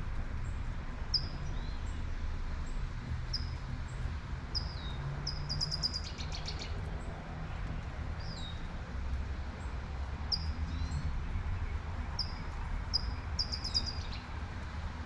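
A songbird repeating short, high chirps about once a second, with a quick rattling trill about six seconds in and another near the end. Beneath it runs a steady hiss of light rain and a low traffic rumble.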